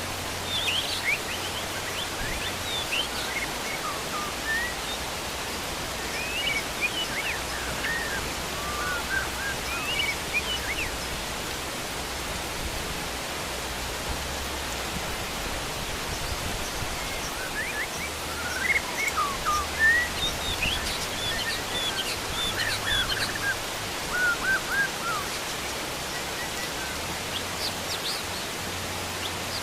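Heavy rain falling as a steady hiss, with wild birds calling over it in quick rising and falling chirps. The birds come in two spells: through the first ten seconds or so and again from about eighteen to twenty-five seconds in.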